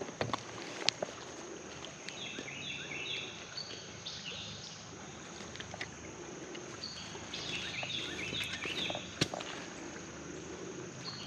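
Steady outdoor background hiss with a bird singing two runs of quick, high, stepped notes, about two seconds in and again about seven seconds in. A few sharp clicks come at the start and near the end.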